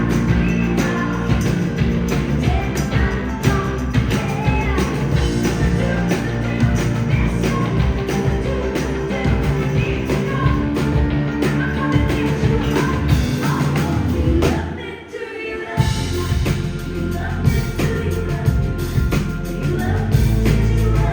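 Live rock band playing a song with singing. Near two-thirds through, the band drops out for about a second, then comes back in full.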